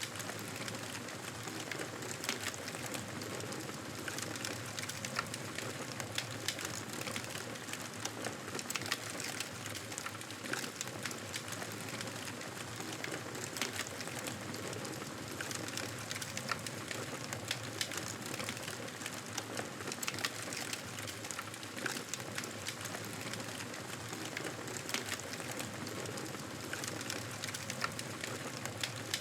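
Wood fire burning in a fireplace: a steady hiss with frequent small, sharp crackles and pops.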